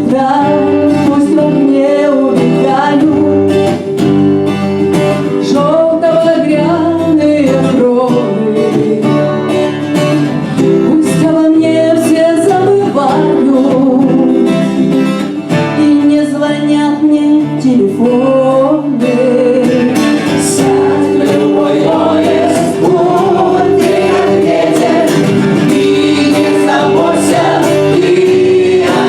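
Several voices singing a song in Russian together over acoustic guitar accompaniment.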